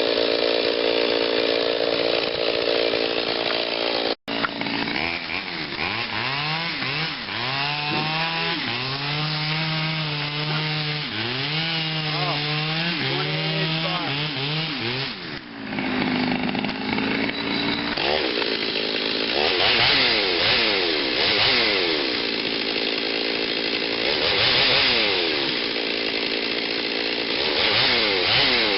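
Exhaust-modified Stihl 039 two-stroke chainsaw with a 28-inch bar cutting into a big oak. Its engine note holds steady at first, then rises and falls again and again as the saw loads down in the cut and recovers. The sound cuts out for a split second about four seconds in.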